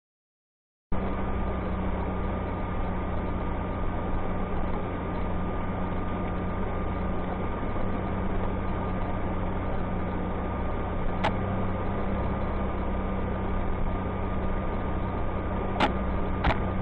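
Steady car engine and road noise with a constant hum, starting abruptly about a second in, with a few sharp clicks later on and near the end.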